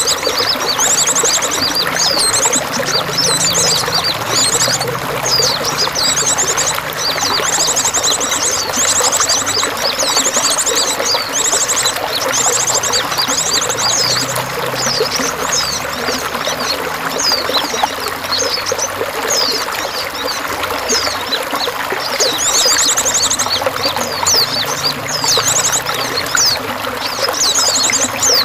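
Running water flowing steadily, with small birds chirping and giving fast, high trills over it again and again.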